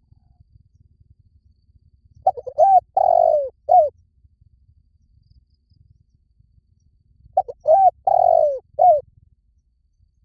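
Spotted dove cooing its territorial call: two phrases about five seconds apart, each a few short coos and a longer drawn-out middle note.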